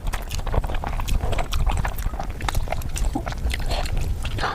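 Close-miked eating of noodles: continuous chewing with many quick wet mouth clicks and smacks.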